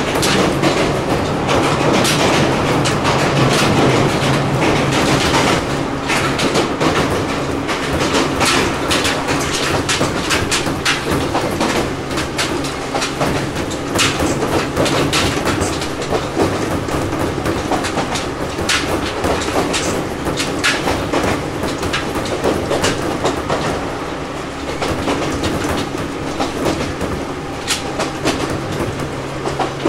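Ohmi Railway 800 series electric motor car running between stations, heard from inside the car: wheels click over rail joints again and again over a steady hum.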